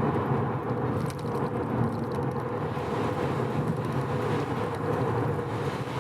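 Mazda RX-7 FD3S's 13B twin-turbo rotary engine running steadily under light load, mixed with road and tyre noise, while cruising at highway speed. The engine is freshly rebuilt and being run in gently.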